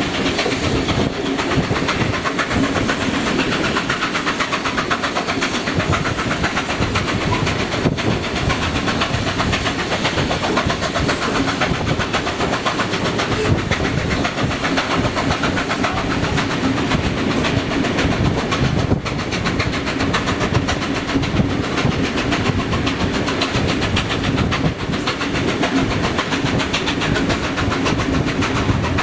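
Steam locomotive 3801 running under steam: a steady, unbroken stream of rapid beats over a dense hiss.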